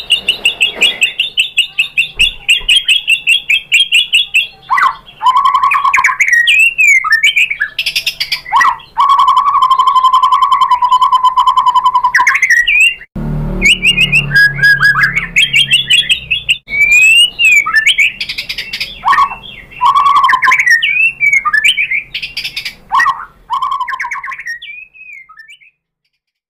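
White-rumped shama singing loudly and continuously. It opens with fast repeated chattering notes, then moves to varied whistled phrases, including a long steady mid-pitched note with rapid trills above it. The song breaks off abruptly about halfway through, resumes with more phrases, and fades out near the end.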